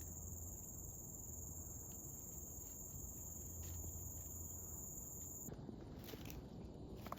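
Rainforest insects giving a steady high-pitched buzz that cuts off suddenly about five and a half seconds in. Footsteps follow on the trail.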